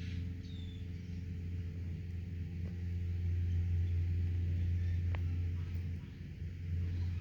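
Steady low hum of an idling engine, with a couple of faint clicks.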